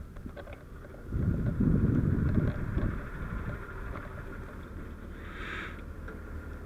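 Fire engine's diesel idling as a steady low hum in the background. About a second in, a loud burst of low rumbling noise lasts roughly two seconds, and a short hiss comes about five seconds in.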